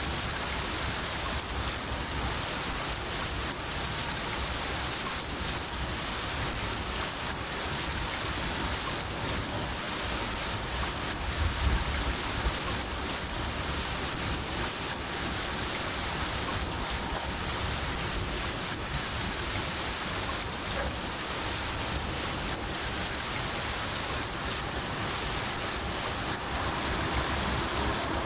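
A cricket chirping steadily, about three high chirps a second, with a short break about four seconds in, over steady rain hiss. A low rumble of thunder comes about halfway through.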